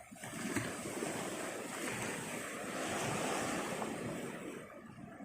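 Sea waves washing on the shore, with wind buffeting the microphone; the sound dips briefly near the end.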